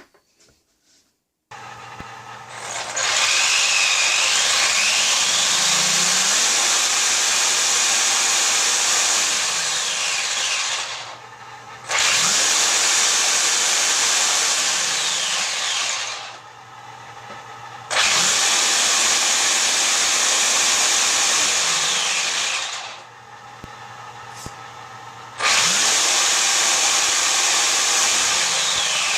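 A small power tool motor run in four long bursts, each winding up, running steadily for several seconds, then winding down.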